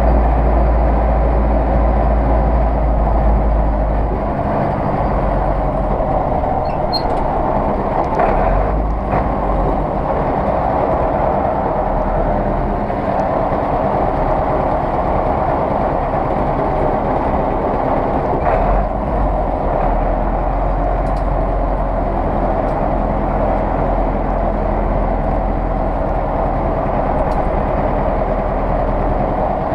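Zetor 6911 tractor's four-cylinder diesel engine running steadily, with a few brief knocks or clanks around 8 and 19 seconds in.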